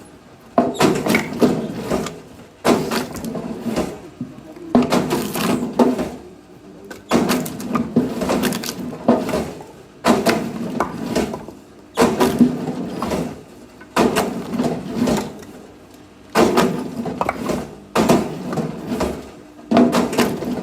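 Axe splitting firewood, a sharp strike about every two seconds, ten in all, each fading over a second or so.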